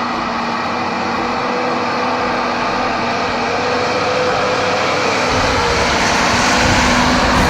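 Steady mechanical drone with a faint hum, like a motor running; a deeper rumble joins about five seconds in.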